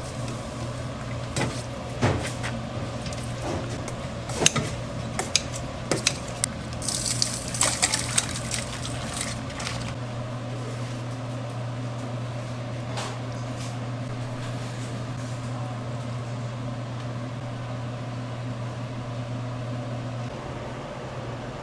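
Kitchen clatter: scattered knocks and clinks of dishes and utensils for about ten seconds, with a short hiss about seven seconds in, over a steady low hum that continues on its own afterwards.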